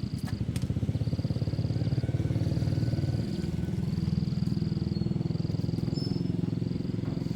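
A car engine running steadily with a rapid, even pulse.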